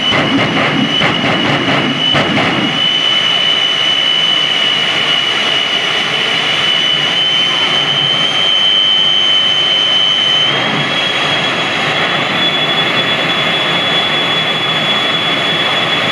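Jet engine of a jet truck running loud, a roar topped by a high turbine whine that steps up in pitch about ten seconds in. A rapid crackle runs through the first two seconds or so.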